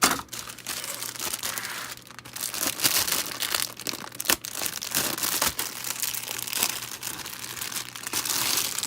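Plastic packaging crinkling and rustling as model-kit parts are unpacked and handled, with scattered sharp clicks throughout.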